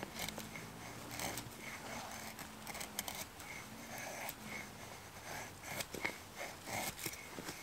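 Axe blade shaving thin curls off a stick of dry firewood to make feather sticks: a series of short, quick scraping strokes at an uneven pace.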